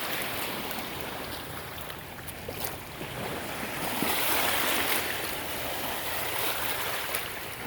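Sea waves and water rushing past a sailboat with wind on the microphone, a steady rush that swells louder about four seconds in, with a few light knocks.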